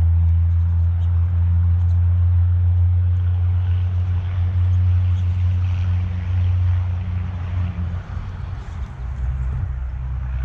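A low, steady engine hum, its pitch dropping about eight seconds in. Faint high chirps from small birds come through above it.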